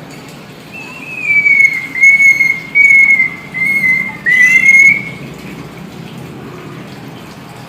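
Hill myna whistling a loud, high, nearly level note, broken into about five stretches over some four seconds.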